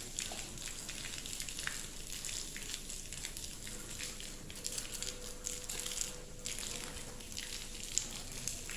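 Volcanic ash rain falling: a steady, fine crackling patter of many small ticks. A faint steady tone joins it about halfway through.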